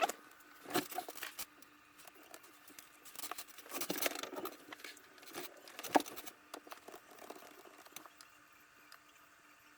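Scattered light clicks and taps of a computer mouse and keyboard, in short clusters with one sharper click about six seconds in, thinning out toward the end, over a faint steady hum.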